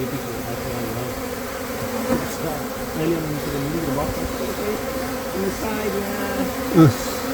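Dense buzzing of a honeybee colony with wavering pitch as the bees rush into the hive box where their queen has been placed. Near the end, one brief louder sound falls steeply in pitch.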